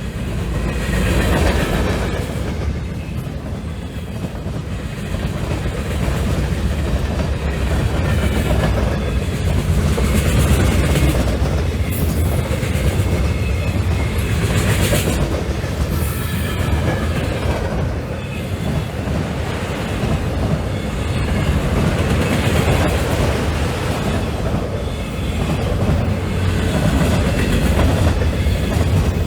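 Freight train rolling past, a steady loud rumble with wheels clacking over rail joints. A few brief high-pitched bursts come about halfway through.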